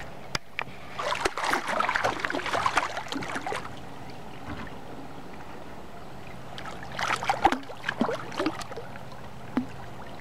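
Splashing and knocking close to the boat in two irregular bursts, about a second in and again near the end, as a hooked channel catfish is played in alongside.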